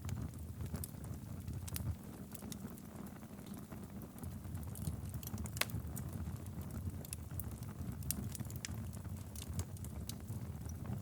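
Wood fire burning in a fireplace: a steady low rumble of flames with irregular sharp crackles and pops scattered throughout, a few of them louder.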